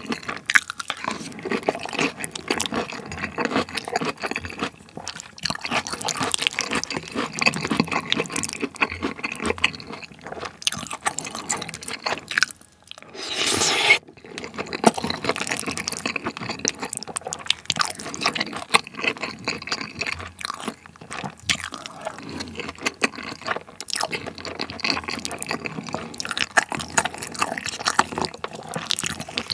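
Close-miked chewing of curry rice with chunks of pork neck steak: wet, squishy mouth sounds with many small crackles and clicks, and a short break about 13 seconds in before a brief hissing swell.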